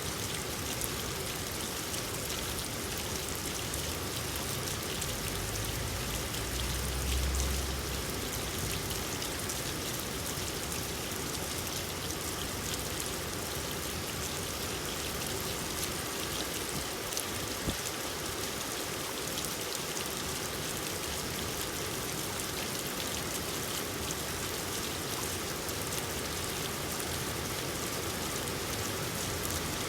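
Steady rain falling, an even hiss of drops throughout. A brief low rumble swells about six to eight seconds in, and a single sharp tap comes a little past the middle.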